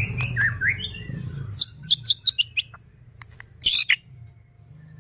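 White-rumped shama (murai batu) singing. It starts with a few short gliding whistles, then gives a run of sharp clicking, crackling notes and a loud harsh note nearly four seconds in.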